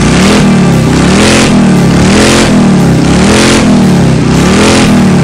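Recorded motorcycle engine revving sound: the pitch rises and falls about once a second, five revs in a row, with a rush of exhaust noise on each rise. This is a sound effect, not a running engine, since the motorcycle being ridden is an electric toy.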